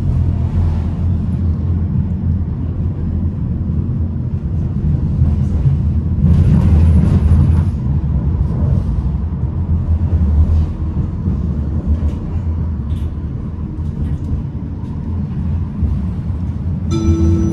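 Tram running along the track: a steady low rumble of wheels and motors, with a swell of hiss about six to eight seconds in. Near the end comes a short chime, the kind that precedes a stop announcement.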